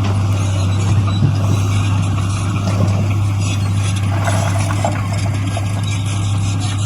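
Heavy-equipment diesel engine running steadily under load, with a deep, constant hum and a busy mechanical noise over it.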